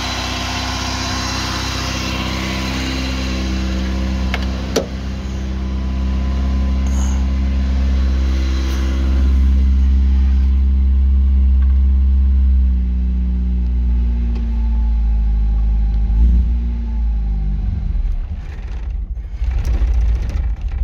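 Austin Princess engine running at a steady idle, with a single sharp click about five seconds in. The idle pitch eases slightly lower later on and turns uneven near the end.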